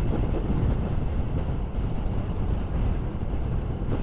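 Wind buffeting the microphone of a moving KTM 390 Duke motorcycle, a steady low rumble.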